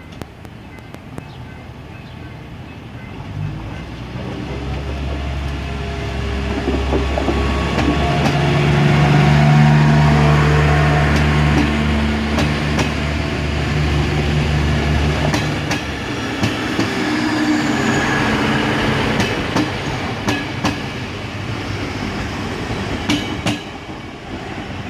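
TCDD MT15400-series diesel multiple-unit train passing close by. A low, steady drone builds from a few seconds in, is loudest around ten seconds in, and drops away about fifteen seconds in. Throughout, the wheels rush and click over the rail joints.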